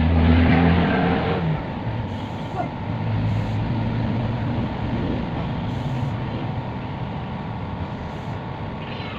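A motor running steadily with a low pitched hum. It is loudest in the first second and a half, then settles to a steadier, rougher run.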